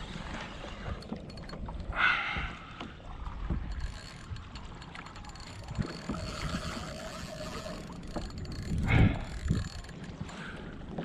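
Spinning fishing reel being cranked as a lure is retrieved, its gears whirring and clicking, with two louder noises about two seconds in and near the end.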